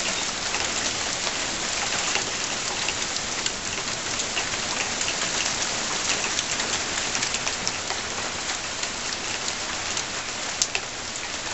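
Rain shower with a few small hailstones, pattering steadily with many sharp little ticks of stones and drops striking, and one sharper click about ten and a half seconds in.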